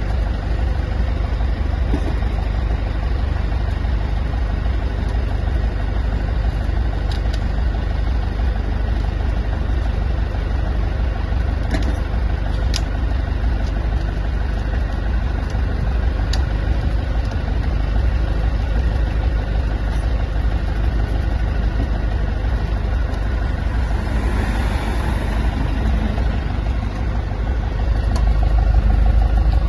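A steady low engine or motor running throughout, with a few light clicks, growing louder near the end.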